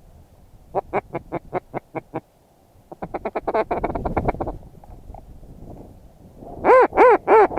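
Duck quacking in mallard-style runs: a string of about eight evenly spaced quacks about a second in, a fast chattering run around the middle, and a few very loud quacks near the end. Wind hiss lies underneath.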